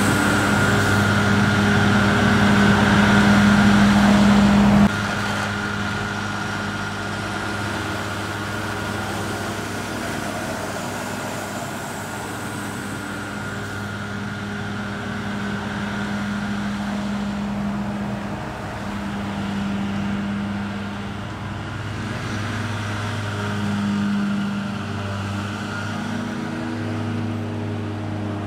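Heavy diesel farm machinery engines running. The sound drops suddenly about five seconds in to a quieter engine hum that swells and eases.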